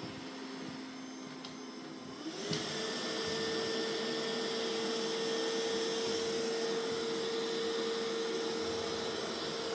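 Mova Z60 robot vacuum's suction fan running at a lower speed, then a little over two seconds in speeding up with a rising whine and holding a higher, louder pitch: the suction ramping up.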